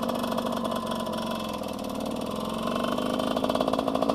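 Husqvarna WR125's 125cc two-stroke single-cylinder engine running in first gear, dipping slightly about two seconds in and then growing louder over the last second or so as the clutch is eased out and throttle given to pull away.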